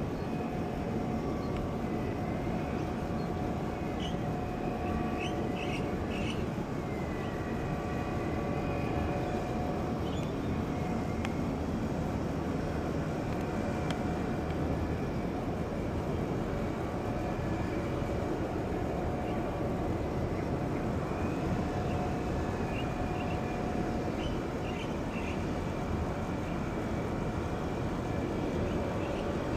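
Jet airliner engines running, a steady rush of noise with a few steady whining tones, and higher tones that waver up and down in pitch.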